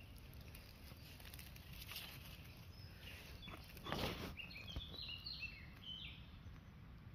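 A small bird sings a quick run of short, high chirping notes over about two seconds, starting just after a brief rustle of plants about four seconds in, over a faint low rumble.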